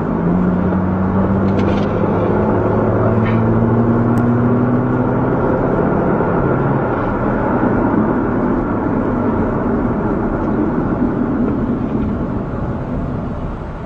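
Car engine and road noise, the engine's hum rising slowly in pitch for about six seconds before it blends back into a steady road rumble, with a few faint clicks.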